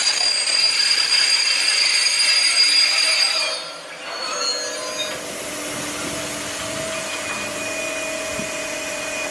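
Freight train of tank wagons rolling past, its wheels squealing high for the first three seconds or so. After a short drop in level it settles into a quieter, steady rolling hum with a faint held whine.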